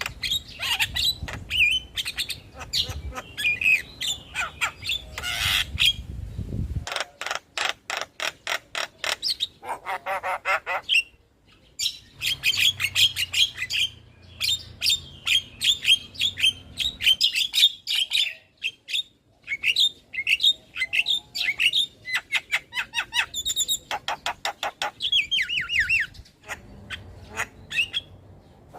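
Javan myna (jalak kebo) in full song: fast runs of harsh squawks and rattling chatter, mixed with short high whistles, in several spliced recordings that break off abruptly.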